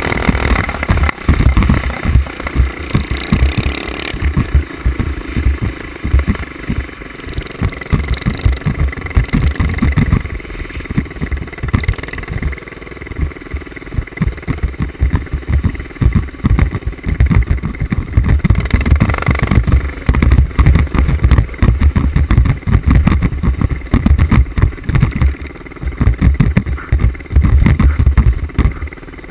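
Mini bike engine running under throttle off-road, heard through heavy wind buffeting on a helmet-mounted camera's microphone, which makes dense, irregular low thumps.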